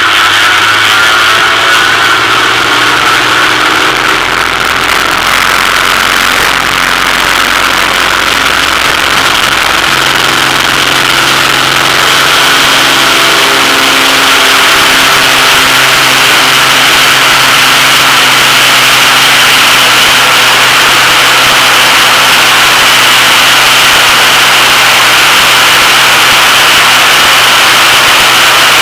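Cessna 206 single-engine piston plane running at high power for takeoff: a loud, steady engine and propeller drone whose pitch shifts in the first few seconds, then holds.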